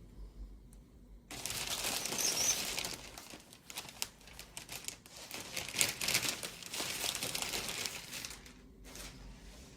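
Packaging crinkling and crackling as it is handled and torn open, starting suddenly about a second in and dying down near the end.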